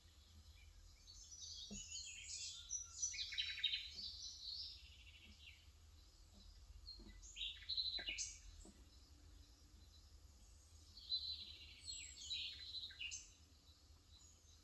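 Small birds chirping and twittering outside in three short bouts of quick, high-pitched calls, the busiest in the first few seconds, with a few faint soft taps underneath.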